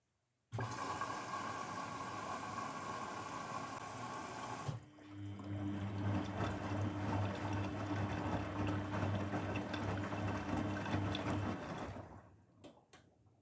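Grundig washing machine: water rushes through it abruptly, then a pump hums steadily along with the water for about seven seconds. It stops near the end, followed by a few clicks.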